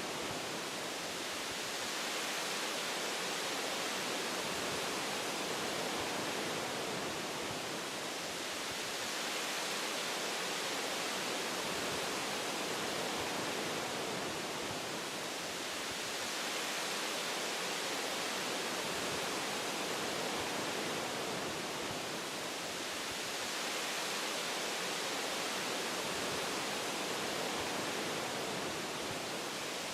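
Wind blowing through forest tree branches: a steady rushing hiss that swells and eases slowly a few times.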